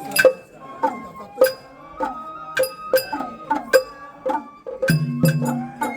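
Traditional Japanese festival music from a float band: sharp struck or plucked notes about twice a second, joined about five seconds in by a lower sustained tone.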